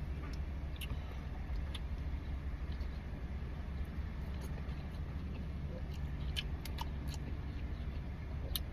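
Steady low rumble of a car idling, heard from inside the cabin, with a few faint clicks and small handling noises.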